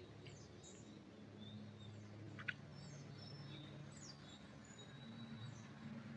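Faint forest ambience: small birds giving scattered short high chirps and brief whistles over a low steady hum. A single sharp click about two and a half seconds in is the loudest sound.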